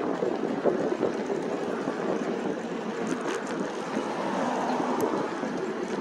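Steady wind noise rushing over a handlebar-mounted phone's microphone on a moving e-bike, mixed with road noise.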